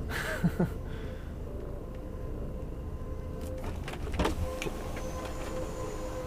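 DAF XF106 lorry heard from the cab, its engine running low while creeping along, with a brief hiss at the start. About four seconds in, a steady high squeal from the brakes sets in and holds.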